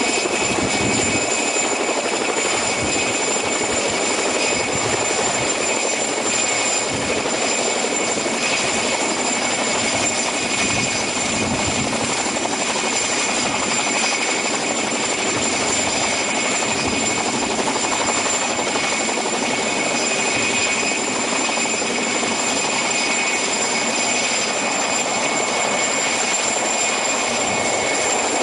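Aircraft engine noise: a steady, unbroken drone with a constant high whine over it.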